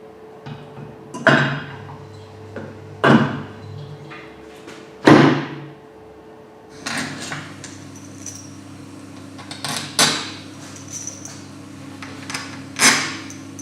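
Hammer striking metal in a workshop: six separate blows, roughly two seconds apart, each ringing out briefly, over a steady low hum.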